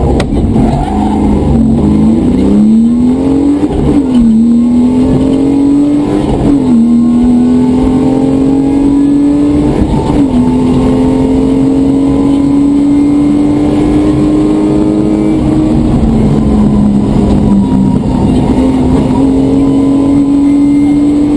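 Rally car engine heard from inside the cabin, pulling hard through the gears: the revs climb and drop sharply at four upshifts in the first ten seconds or so, then hold a high, slowly rising note, easing off briefly past the middle before climbing again.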